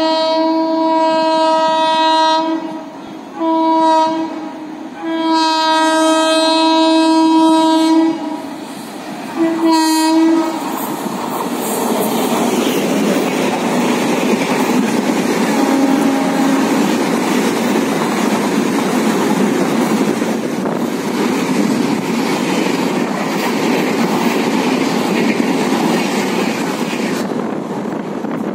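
Shatabdi Express running through a station at speed. Its locomotive horn sounds four blasts in the first ten seconds, long, short, long, short. Then comes the steady rush of the coaches going past, with wheels clattering over the rail joints.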